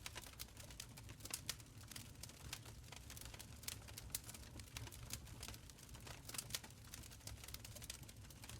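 Wood fire crackling in a stone fireplace: many irregular sharp pops and snaps over a low, steady rumble of the flames.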